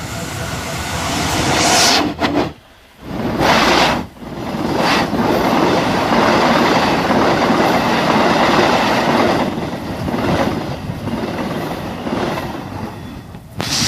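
A train passing close by at a railway level crossing, loud and steady. The sound drops out for about a second a little after two seconds in, then comes back just as loud.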